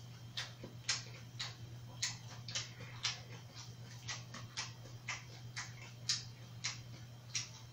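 Close-up mouth sounds of chewing grilled pork belly, with sharp wet clicks about twice a second over a steady low hum.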